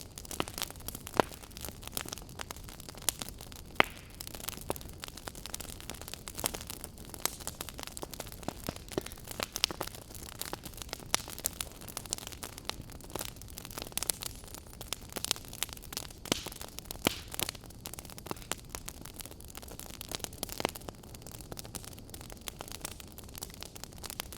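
Wood fire burning in a fireplace: a steady low hiss with irregular sharp crackles and pops, several a second, a few of them louder.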